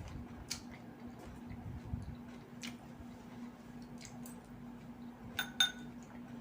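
Eating at the table: soft chewing and small clicks, then two quick ringing clinks of a utensil against a plate or bowl about five seconds in, over a faint steady hum.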